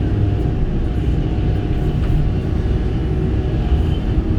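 Kobelco SK85 excavator's diesel engine running steadily under work, with a steady whine over its low rumble.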